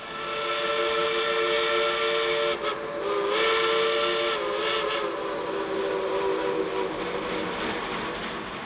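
Steam locomotive chime whistle blowing several notes at once: a long blast, a short break, then a second long blast that fades out toward the end.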